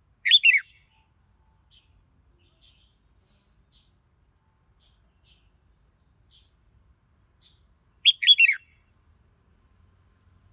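Red-whiskered bulbul singing: two short, loud whistled phrases of falling notes, one right at the start and another about eight seconds in, with faint soft notes between.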